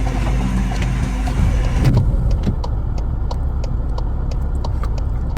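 A motor vehicle's engine running steadily. About two seconds in, the sound changes abruptly to a low vehicle rumble with a regular ticking, about three ticks a second.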